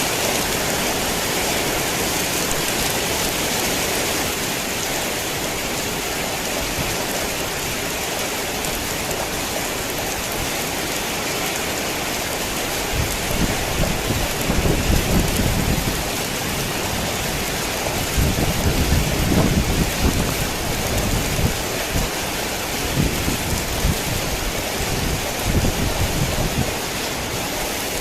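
Heavy rain falling steadily as an even hiss. Low rumbles swell up about halfway through and again a few seconds later, with shorter ones after.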